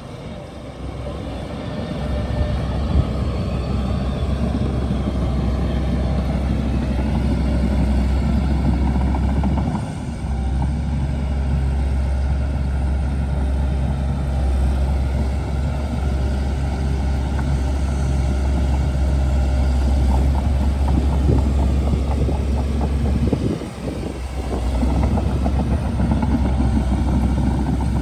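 Shantui DH17C2 bulldozer's diesel engine running steadily, a deep drone with a dense rattle above it. The drone dips briefly twice before coming back.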